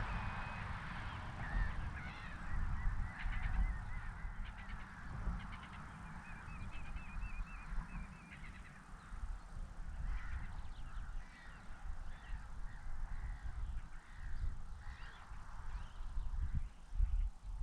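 Wild birds calling and singing, including a wavering trill from about six to eight and a half seconds in, over a steady low rumble.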